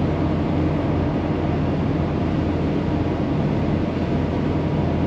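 Volkswagen Vanagon's four-cylinder engine and road noise, a steady drone while climbing a wet mountain pass at about 40 mph, heard from inside the van. The engine is in its recurring fault of not firing on all four cylinders, which the owner suspects is something electrical, perhaps the O2 sensor plug, getting wet.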